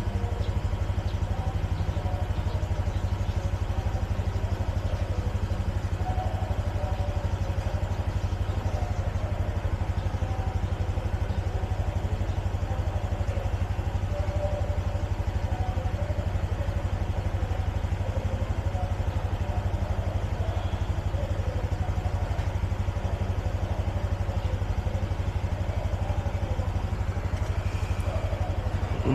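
Motorbike engine running steadily with a low, even drone.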